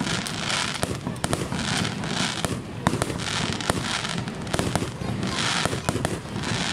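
Fireworks display: aerial shells bursting, many sharp bangs in quick succession, with a hiss that swells and fades about once a second.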